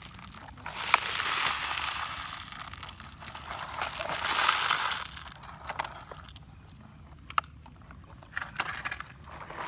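Gravel crunching and rattling in two longer noisy stretches, about a second in and again about four seconds in, with scattered sharp clicks of small stones in between.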